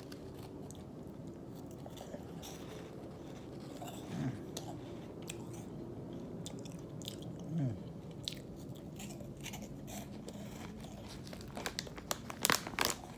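A person chewing a crunchy white cheddar and ranch cheese puff, with soft crunching and two short falling "mm" hums of approval. A few sharp crackles come near the end.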